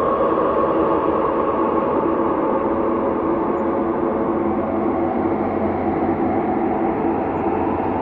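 Ambient space drone: layers of held tones over a rumbling hiss, steady and slowly shifting, with no beat or distinct notes.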